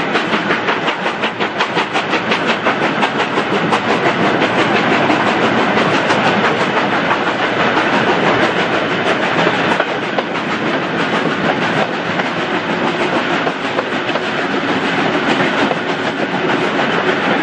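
Steam locomotive under way, with rapid, even exhaust beats over the running of its wheels on the rails, easing off a little about ten seconds in.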